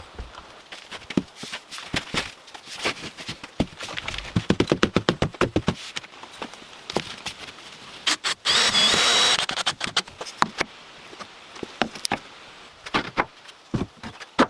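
Wood-working clatter: scattered knocks on timber, a fast run of knocks about four seconds in, then a brief burst of a power tool a little past halfway.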